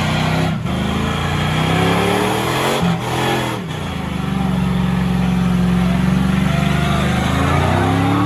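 A car engine revving hard. Its pitch climbs, drops sharply about three seconds in, holds a high steady note, then climbs again near the end.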